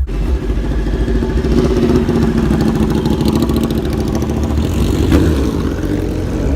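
Car engine running loudly and steadily.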